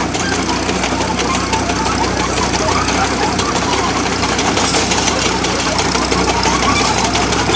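An engine running steadily at low speed with a fast, even low pulsing, and voices faintly in the background.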